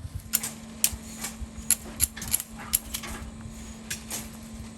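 Irregular sharp metallic clinks and knocks from construction work with hand tools, about a dozen of them at an uneven pace. A steady low hum starts just after the beginning and runs underneath.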